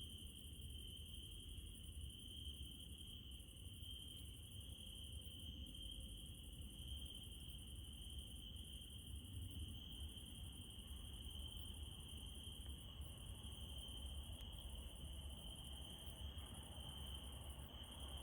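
Crickets and other night insects trilling steadily: a continuous high-pitched trill with a higher, shrill buzz above it, over a faint low rumble.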